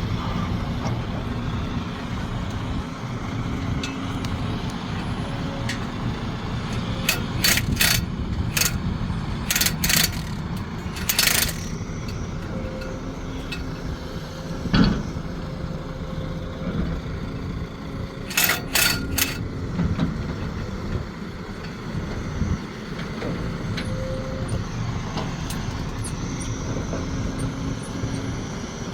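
Sumitomo SH370LHD-6 excavator working: its engine runs steadily throughout. Two clusters of short, sharp high-pitched sounds come through, about a quarter and two-thirds of the way in, with a single knock about halfway.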